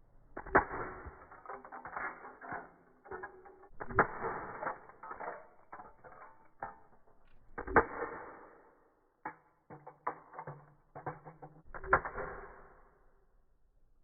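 Hammer blows smashing die-cast metal toy cars: four heavy strikes about four seconds apart, each trailing off in rattling, with smaller clinks and knocks between them.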